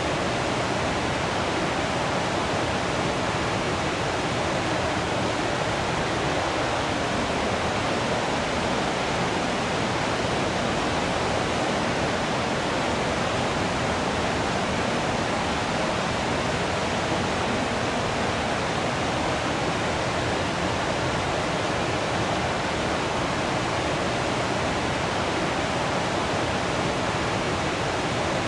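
Waterfall rushing: a steady, dense roar of falling water that does not change.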